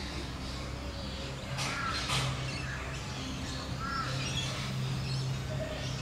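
Birds calling in the background, with two short arched calls about two and four seconds in, over a steady low hum.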